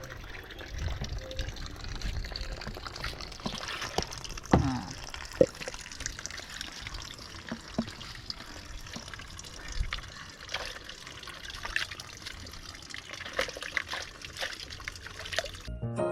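Water splashing and trickling, with scattered knocks and clicks.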